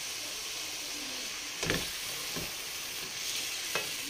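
Browned ground beef and a freshly added blended vegetable sauce sizzling steadily in a hot metal pot, with two knocks about two seconds apart as the mixture is stirred with a wooden spoon.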